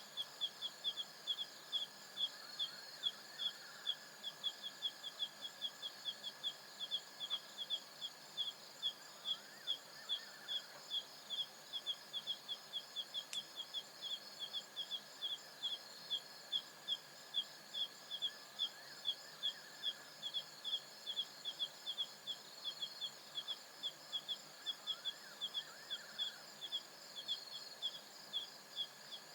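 Night insect chorus on the African savanna: several crickets trilling steadily in high notes, one chirping regularly about three times a second, with a few faint rising and falling calls now and then.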